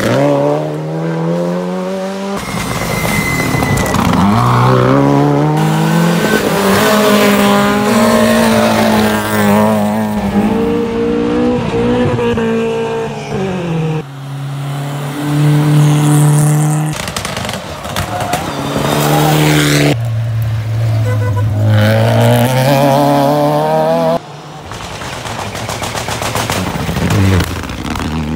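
Rally car engines revving hard, their pitch climbing and dropping again and again through gear changes, in several clips cut together with abrupt changes.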